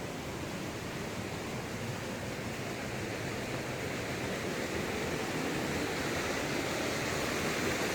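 Steady rush of fast-flowing floodwater in a canyon creek after a flash flood, growing slightly louder toward the end.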